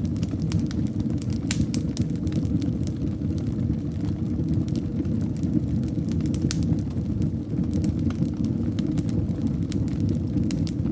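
Fireplace fire burning steadily: a constant low rumble of flames with frequent, irregular sharp crackles and pops.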